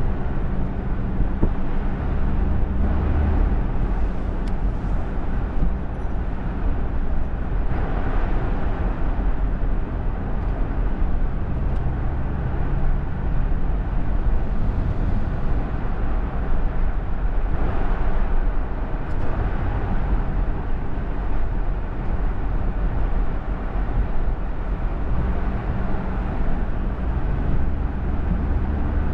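A steady low rumble of a motor vehicle running, with an even hum in its lowest range and road noise above it.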